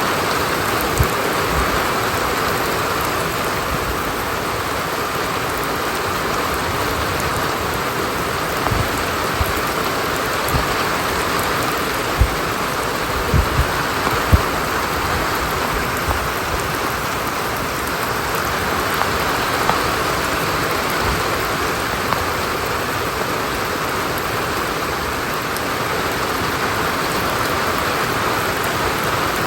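Steady rain falling, an even hiss, with a scattering of short low thuds, most of them in the middle of the stretch.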